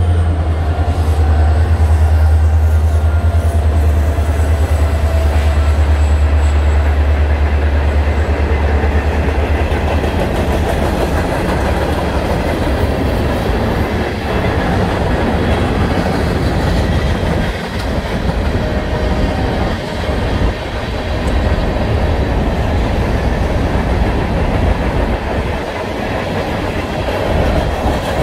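Freight train of tank cars and covered hopper cars rolling past, wheels clacking over the rails. A deep rumble is loudest for the first ten seconds or so, then fades under the steady rolling noise.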